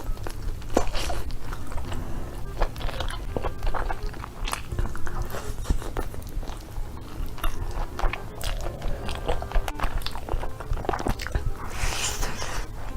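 Close-miked eating of whole chicken: biting and chewing, with irregular clicks and crunches throughout and a short sharper tearing or crunching burst near the end.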